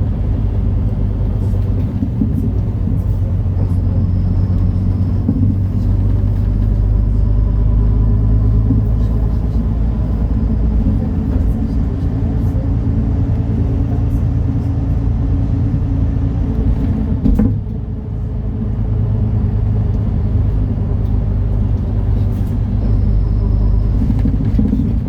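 MAN Lion's City NL293 city bus's diesel engine running under way, a steady low drone that swells slightly now and then, with one sharp knock about seventeen seconds in.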